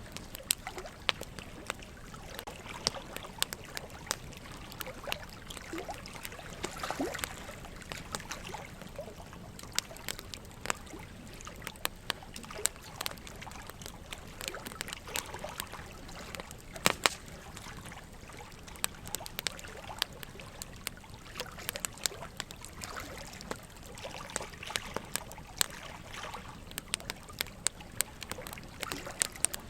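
Wood fire crackling with frequent sharp pops, one loudest about halfway through, over a steady trickle of running water.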